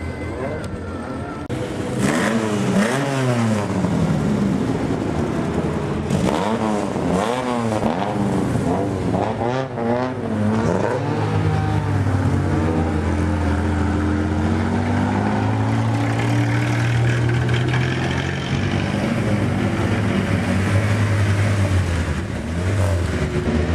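Several historic cars' engines accelerating and revving hard, their notes rising and falling repeatedly as they go by, then settling into a steadier engine note about halfway through.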